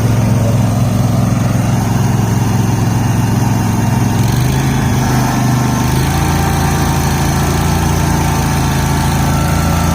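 Garden tractor engines running steadily under load as the Cub Cadet and John Deere pull against each other. Between about four and six seconds in, the engine note shifts and then settles again.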